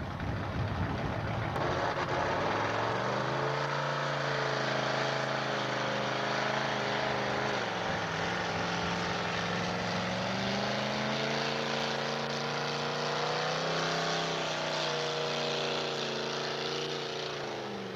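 Pulling truck's engine running hard under load. The revs climb about three seconds in, sag briefly midway, climb again, then drop off near the end.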